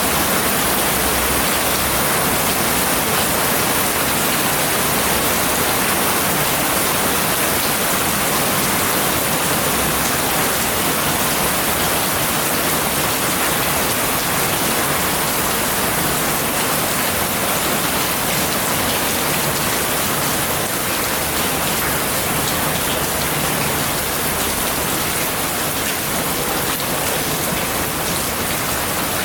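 Steady heavy rain falling, an even dense hiss of drops on surfaces.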